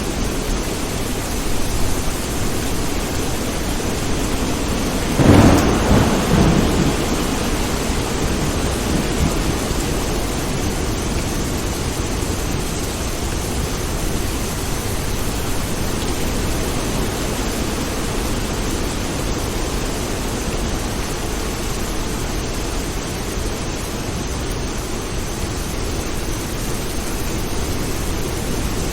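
Steady rain with one thunderclap about five seconds in, rumbling away over a couple of seconds.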